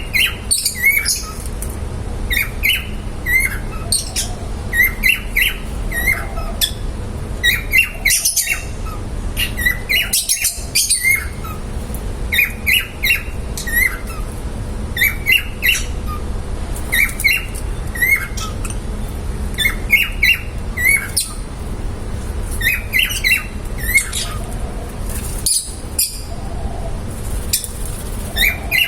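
Pet lovebirds calling, a steady stream of short, shrill chirps and squawks, often in quick pairs or triplets, over a steady low background hum.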